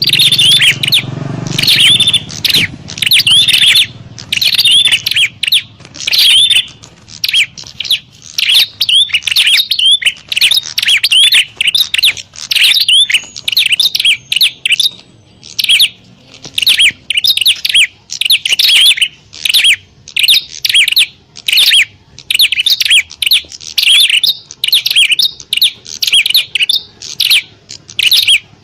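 Prinias (prenjak) giving agitated, fighting calls: rapid, loud, high-pitched chirps repeated several times a second almost without a break, the kind used as a lure to draw in wild prinias.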